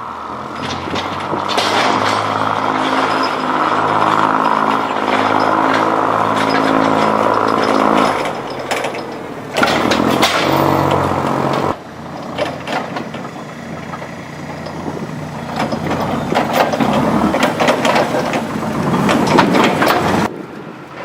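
Forklift engine running as the truck pushes a snowplow, with a steady engine note for the first several seconds, then a rougher, noisier stretch full of short clatters and scrapes.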